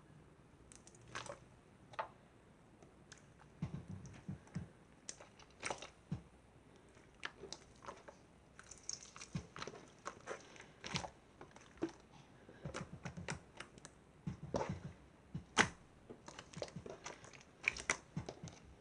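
Slime being played with by hand: irregular sticky clicks and small pops, with a couple of short runs of soft squishing about four seconds in and again near fifteen seconds.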